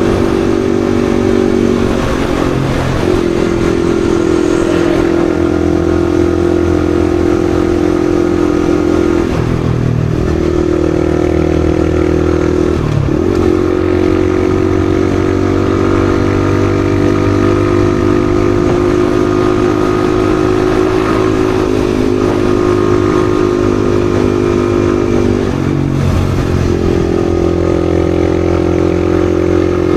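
Yamaha XSR155's single-cylinder engine running steadily under way, its note dipping briefly and recovering about four times across the stretch.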